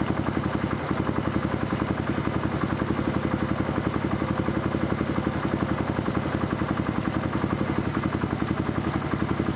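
Vehicle engine idling steadily, with an even, fast low pulse.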